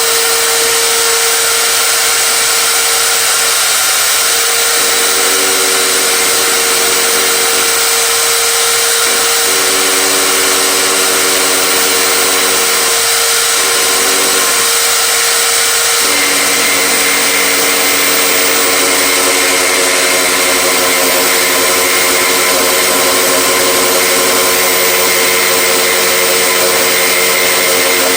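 A power tool running continuously, a loud steady noise with a hum whose lower tones drop out and return several times.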